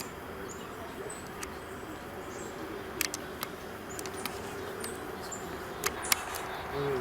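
Chickadee calling: short, high call notes repeated about every second over steady outdoor background noise. A few sharp clicks stand out, the loudest about three seconds in and twice near six seconds.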